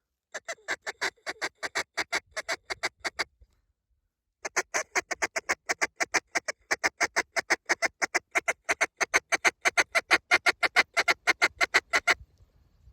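Mallard duck call blown in long runs of rapid, evenly spaced quacks, about five to six a second, with a short break about three seconds in.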